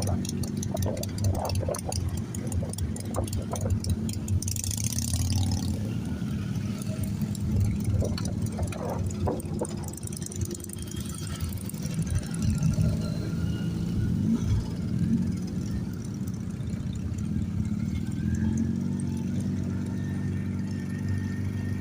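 Motorcycle engines running, mostly a steady idle with the engine note rising and falling a little, and some short sharp clicks in the first few seconds.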